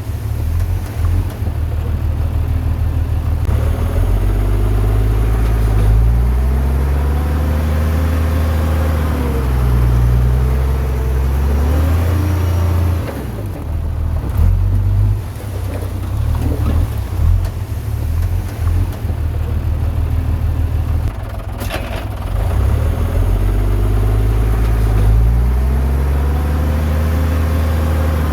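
Heavy diesel engine of earthmoving machinery working under load, its pitch rising and falling repeatedly as it revs up and eases off. A single sharp click comes about three-quarters of the way through.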